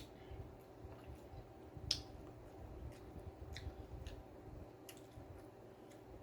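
A person chewing food, with soft wet mouth sounds and scattered small clicks, one sharper click about two seconds in, over a faint steady hum.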